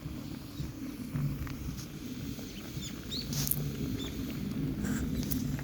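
Bonfire of dried kudzu roots and black nightshade crackling, with scattered sharp pops and a few short high chirps over a steady low rumble.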